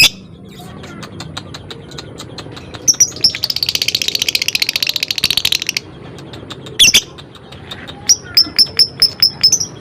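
Lovebird calling: sharp, shrill screeches, then a rapid rattling chatter of about two and a half seconds starting about three seconds in (the 'ngekek' chatter). Another screech comes around seven seconds in, and a quick run of short chirps follows near the end.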